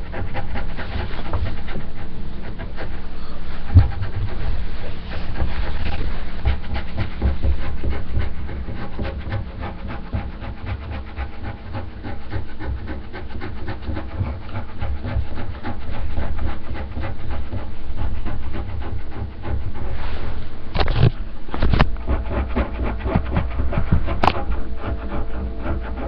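Scratching on the underside of a table, a continuous rough rasping picked up through a webcam microphone, with a few sharp knocks near the end.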